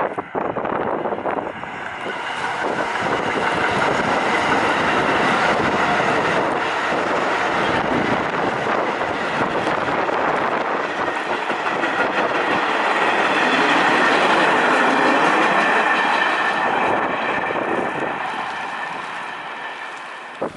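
New York City subway train passing, its running noise on the rails building over the first couple of seconds, loudest about two-thirds of the way through, then fading away near the end. A faint steady high whine runs under the rail noise.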